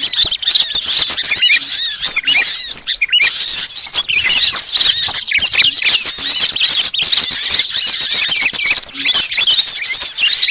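Bird-lure recording: a dense, unbroken chorus of many small songbirds, with quick high chirps and twitters overlapping one another and a short lull about three seconds in.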